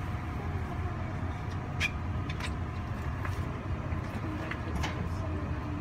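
Steady low rumble inside the carriage of a TEMU2000 Puyuma tilting electric train, with a faint steady hum. A few light clicks and knocks come through in the second half.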